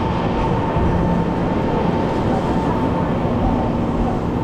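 Taiwan Railway electric commuter train moving alongside a station platform: steady running noise of the train with a faint steady tone over it.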